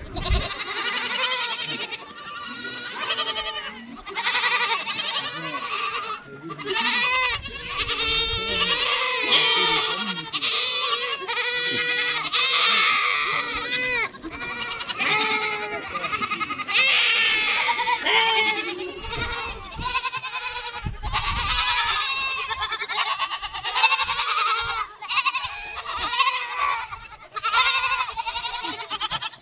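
A herd of goats bleating, many calls overlapping nearly without a break.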